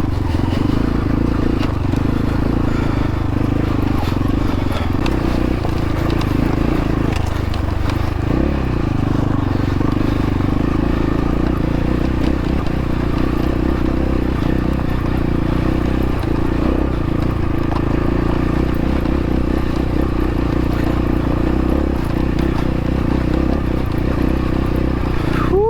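X-Pro Templar X dirt bike engine running steadily at an even throttle as it is ridden.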